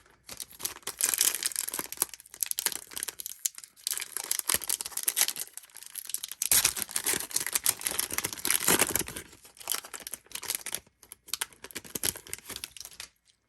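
Trading card pack wrapper being torn open and crinkled in the hands: a long run of crackling with two short pauses, stopping abruptly near the end.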